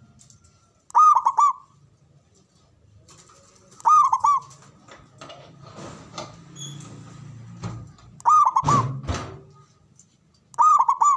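Zebra dove (perkutut) cooing its song four times, each a short rolling phrase of quick coos, repeating every few seconds. A loud knock comes just after the third phrase.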